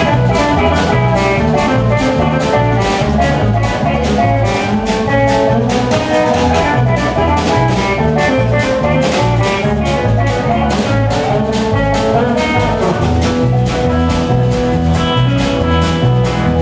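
Live band playing a song's instrumental intro: a drum kit keeps a steady beat over a stepping bass line, with guitar.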